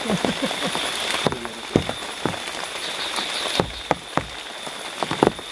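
Heavy rain falling steadily, with many individual drops striking close by in irregular sharp taps.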